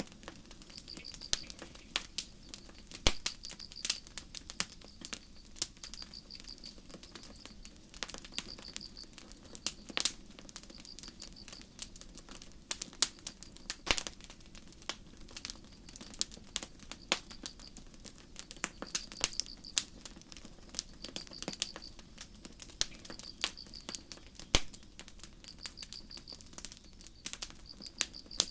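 Campfire crackling, with sharp pops at irregular moments, over crickets chirping in short pulsed trills that repeat every second or two.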